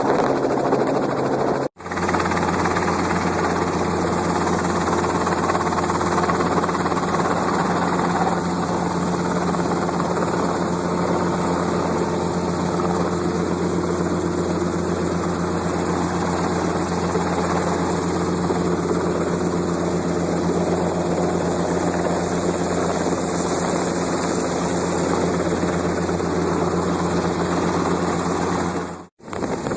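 Helicopter engine and rotor noise heard from inside the cabin in flight: a loud, steady drone with a low hum. It cuts out for a moment shortly after the start and again near the end.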